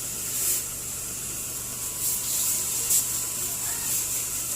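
Water spraying from a coin-operated car-wash pressure hose onto a car: a steady hiss that swells in brief surges.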